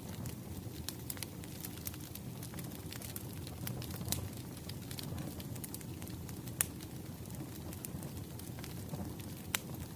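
Wood fire crackling: a steady low rumble of burning logs with scattered sharp pops and snaps, two of them louder, about six and a half and nine and a half seconds in.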